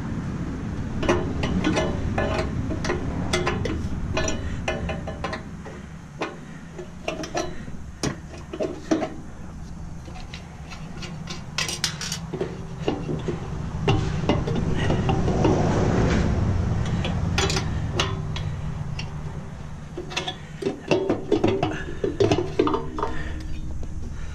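Stainless steel steamer parts and screws clinking and clattering as the unit is dismantled by hand: many short metallic knocks and clinks, over a low hum that swells for a few seconds around the middle.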